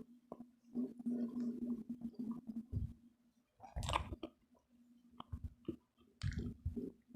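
Close-miked chewing of crispy fried pork belly (lechon kawali): irregular wet mouth clicks and crunches, with a louder crunchy bite about four seconds in and another near the end.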